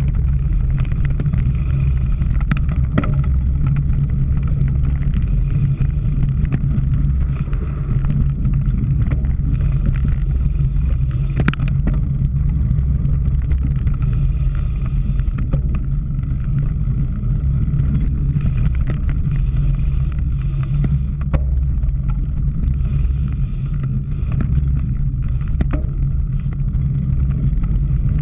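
Steady low rumble of wind and knobby tyres on rough ground, heard from a camera riding on a cyclocross bike. Occasional sharp clicks and rattles come through now and then.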